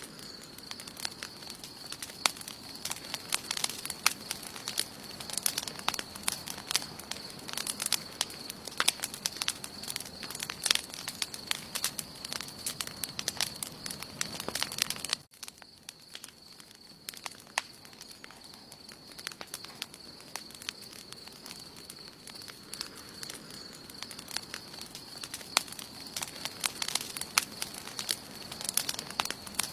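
Campfire burning, wood crackling and popping with many sharp snaps. A steady thin high-pitched tone runs underneath. The sound drops away abruptly about halfway through, then the crackling picks up again.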